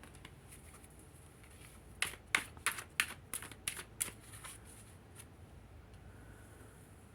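Tarot cards being shuffled: a quick run of about ten crisp card slaps over two and a half seconds, starting about two seconds in.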